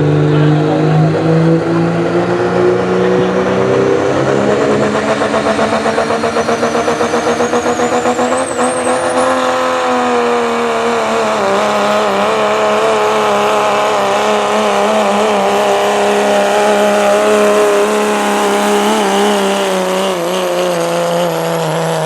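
Turbocharged diesel pickup truck at full throttle pulling a weight sled: the engine note climbs over the first nine seconds with a rising turbo whistle, then holds a high steady pitch with the turbo's shrill whine. A rapid pulsing runs through the sound for a few seconds before the climb tops out, and the pitch starts to fall near the end as the truck comes off the throttle.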